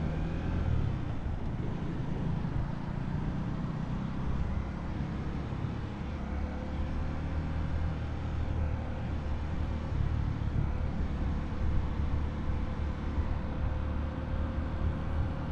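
Motorcycle engine running steadily at low speed in slow, heavy traffic, a continuous low rumble with a faint tone that creeps slowly upward in pitch.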